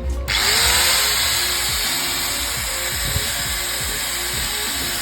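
Polymak 800S 800-watt angle grinder switched on, its motor spinning up with a rising whine about a third of a second in, then running steadily with no load and a high-pitched whine.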